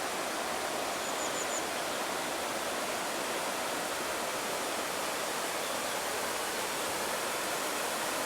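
Running water: a steady, even rushing with no breaks. About a second in, four quick high chirps sound over it.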